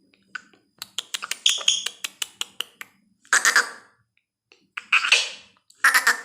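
Pet parrot making a quick run of sharp clicks for about two seconds, then three short harsh squawks about a second apart.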